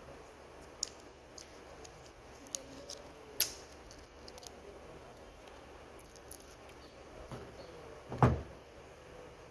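Small clicks and taps from a Toyota Corolla's plastic key fob being handled while its battery is changed, with a sharp click about three and a half seconds in and a louder knock about eight seconds in.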